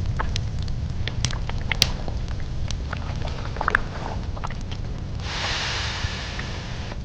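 Sparse, irregular light clicks and taps over a steady low rumble, then a steady hiss for the last two seconds or so.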